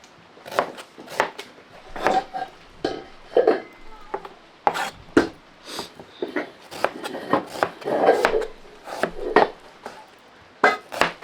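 Knife chopping food on a wooden board: irregular sharp knocks, about one every half second to a second.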